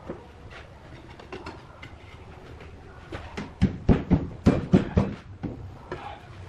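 Irregular knocks and taps on wood: light scattered taps, then a quick run of about ten sharp, loud knocks about three and a half seconds in, with a few lighter ones after.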